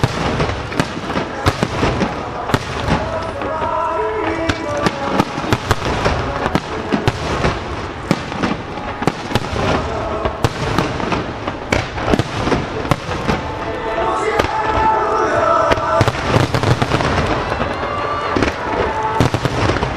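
Rapid aerial firework shells bursting several times a second, echoing back off the lake basin, over music timed to the display; the bursts grow denser in the last few seconds.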